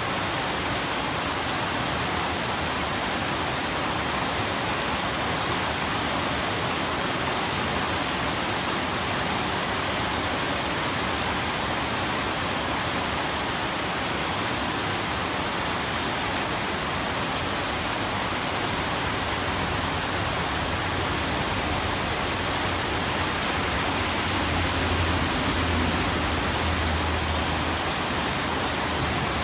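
Steady rain falling as an even hiss. A low rumble swells underneath in the last third and fades near the end.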